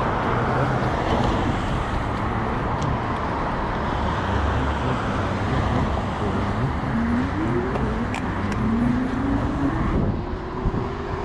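Steady rush of wind and city traffic noise heard while riding an e-bike through traffic, with a whine that rises in pitch twice, briefly at about seven seconds in and then more slowly from about eight seconds on, levelling off near the end.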